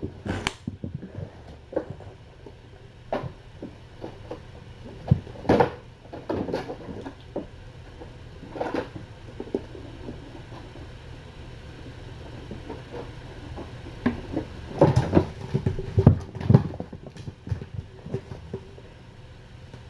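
Kittens playing: irregular soft thumps and knocks, bunched about five seconds in and again around fifteen seconds, over a steady low hum.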